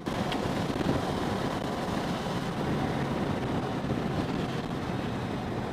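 Motorcycle riding along at a steady speed: wind rushing over the microphone, with the engine and road noise underneath.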